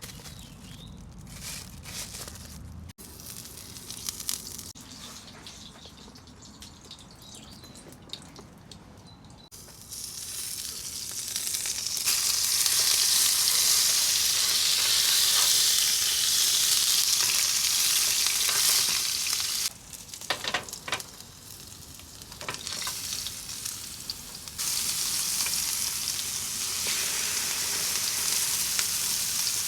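Food frying in a pan. For the first ten seconds or so there are only faint clicks and knocks; then the sizzle grows loud, drops away briefly around twenty seconds in, and comes back.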